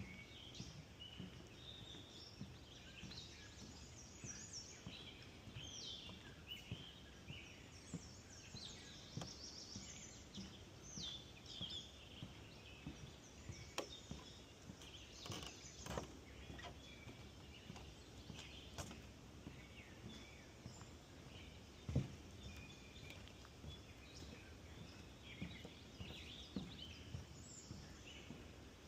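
Faint woodland birdsong: several birds chirping and trilling over a soft background hiss, with a few knocks, the sharpest about three-quarters of the way through.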